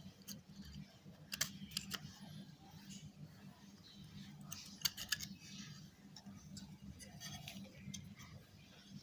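Sharp plastic clicks and taps from handling a small SPC wireless computer mouse, a few at a time with a quick cluster about halfway, over a steady low hum.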